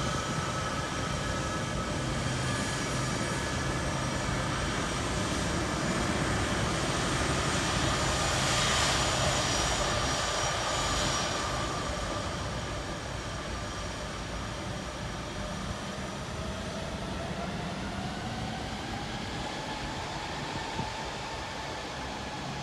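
Boeing C-17 Globemaster III's four turbofan engines running: a steady jet rush with high whining tones that swells about a third of the way in, then slowly fades, one whine gliding up and back down near the end.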